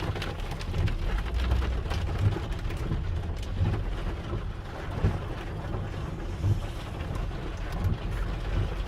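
Hail and heavy rain pelting a vehicle: a steady wash of rain with many scattered sharp ticks of hailstones striking, over a steady low rumble.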